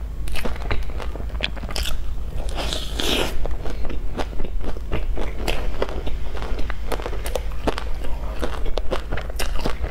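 Close-miked chewing of a crispy crust-topped bread with melted cheese: a steady run of sharp crunching clicks as the crust breaks between the teeth, with a denser, hissier crunch about three seconds in.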